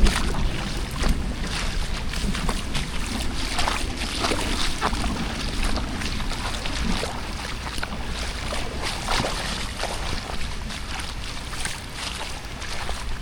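Rain falling steadily, with many scattered sharp drop taps and a low rumble of wind on the microphone.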